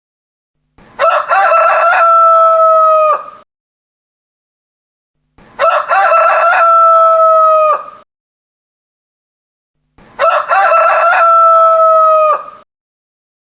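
Rooster crowing three times, each cock-a-doodle-doo lasting about two and a half seconds, evenly spaced about four and a half seconds apart.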